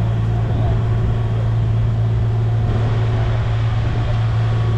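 Heavy diesel engine of an excavator running steadily under load with a constant low drone.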